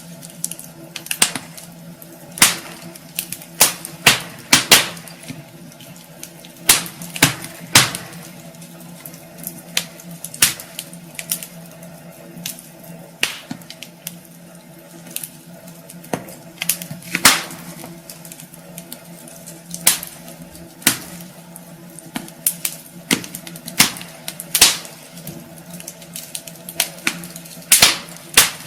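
Wood fire burning in a fireplace, crackling with irregular sharp pops and snaps, a few a second, over a steady soft hiss.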